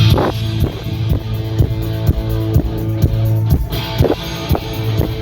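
Live rock band playing an instrumental stretch: strummed electric guitar chords over a steady drum beat, about two strokes a second, with no vocals.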